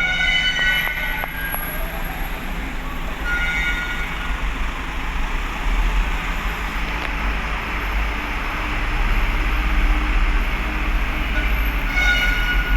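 Steady engine rumble and machinery noise of heavy vehicles on a ship's vehicle deck, with short high squeals or whines near the start, about three and a half seconds in, and near the end.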